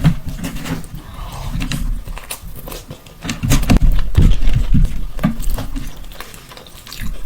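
Close-miked mukbang eating sounds of a man chewing mutton mandi with rice: irregular chews, bites and mouth clicks with no talking.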